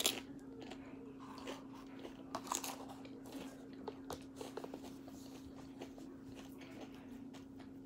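Chewing a mouthful of tortilla-chip nachos: a sharp crunch at the start, then scattered small crisp crunches and mouth clicks, over a low steady hum.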